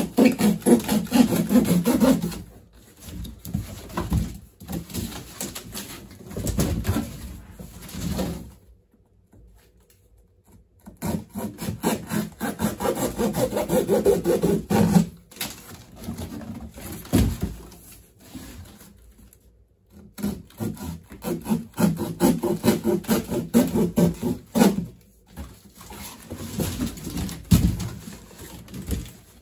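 Cardboard box flaps being cut through with a blade in quick back-and-forth sawing strokes. The cutting comes in several spells of a few seconds each, with short pauses between.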